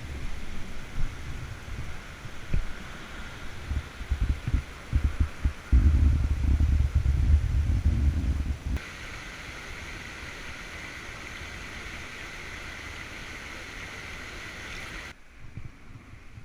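Wind buffeting the microphone as low, gusty rumbling, heaviest in the middle. About nine seconds in it changes abruptly to a steady hiss, which cuts off suddenly near the end.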